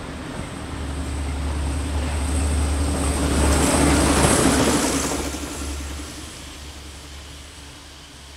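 Heritage passenger train passing close by, tailed by a Sentinel vertical-boiler steam locomotive. The rumble and wheel-on-rail noise build to a peak about four seconds in as the locomotive goes by, then fade away as the train recedes.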